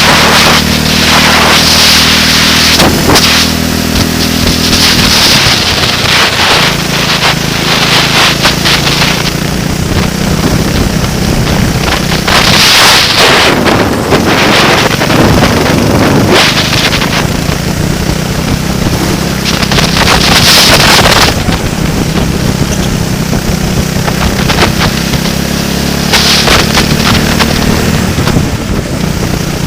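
A racing vehicle's engine running hard at speed, its pitch shifting now and then, with heavy wind buffeting on the microphone coming in repeated loud gusts.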